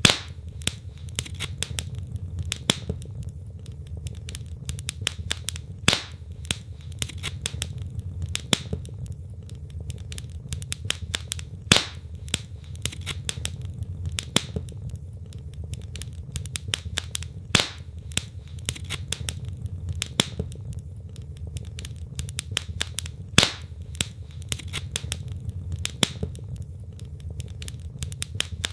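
Wood logs burning in a fireplace, crackling with frequent irregular snaps and pops over a steady low rumble; several pops stand out much louder than the rest.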